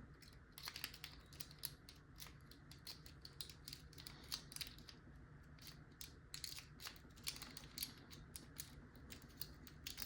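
Faint, irregular little metallic clicks and scrapes of a pick working the pin stack inside a Master Lock 140 padlock, which holds security pins.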